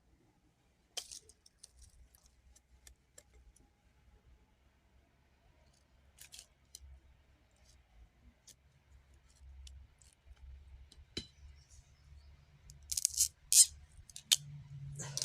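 Scattered light clicks and snaps of small objects being handled, with a quick run of louder, sharper clicks about thirteen seconds in.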